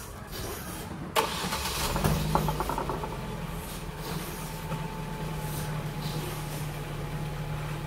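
A click about a second in, then a Ford car's engine starting and settling into a steady idle.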